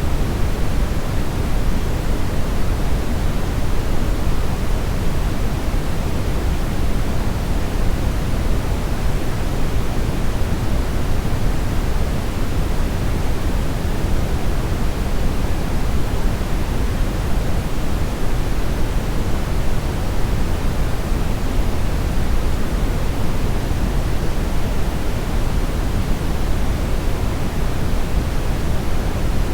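Steady synthetic brownish noise: an even, unchanging rushing hiss weighted toward the low end, with no tones or events.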